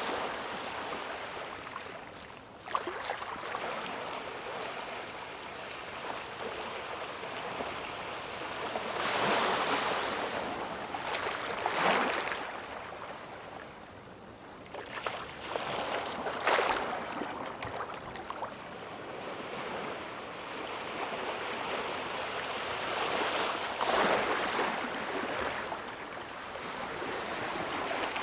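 Ocean surf: a continuous wash of waves breaking and running up the shore. It swells into louder breaks with sharp splashes several times, near the middle and again near the end.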